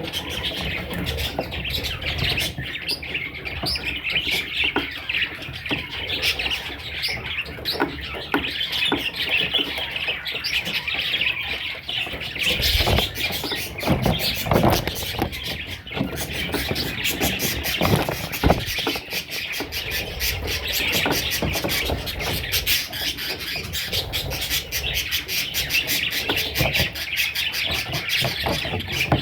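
Budgerigar chicks chirping continuously as a dense, overlapping chatter. A few dull knocks come partway through.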